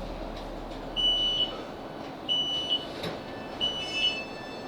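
Class 458 train's door beeps: three evenly spaced high electronic beeps about 1.3 s apart, each ending in a short higher note, over the low rumble of the train as it stops at a station and the doors are released.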